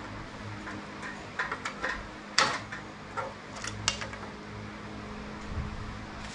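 Scattered metal clinks and knocks from hand tools working at a stuck metal part, several close together about one and a half seconds in and the loudest about two and a half seconds in. A steady low hum runs beneath.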